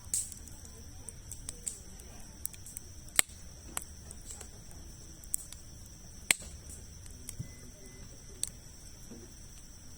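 Wood campfire crackling, with scattered sharp pops from the burning logs, two louder snaps about three and six seconds in. A faint steady high tone runs underneath.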